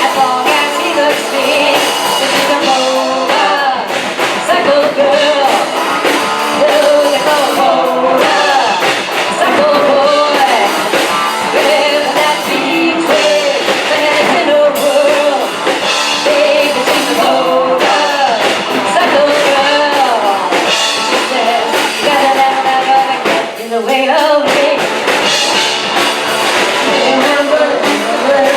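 Live rock-and-roll band playing a song, with a singer's voice carried over the band.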